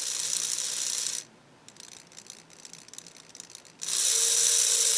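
Small electric motor of an AC Gilbert #31013 model locomotive running in two short spurts on a power pack: a high whir for about a second, then again near the end, louder, with a steady hum beneath it. The armature is spinning the wrong way because the remagnetized field magnet's polarity came out reversed.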